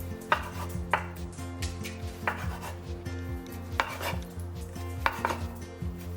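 Kitchenware clinking and knocking about six times while food is prepared, over soft background music.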